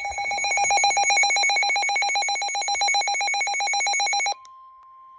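Weather-radio emergency alert tone: a loud electronic trill pulsing about ten times a second. It cuts off abruptly about four seconds in, and a faint, steady, single high tone follows.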